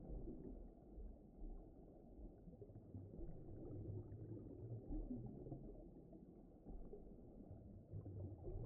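Faint, low rumbling noise that swells and ebbs unevenly, with no distinct events or pitch.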